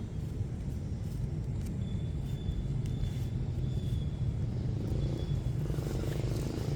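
Steady low rumble of background noise, with a faint high whine that comes and goes, a few light clicks, and a fuller mid-pitched hum building near the end.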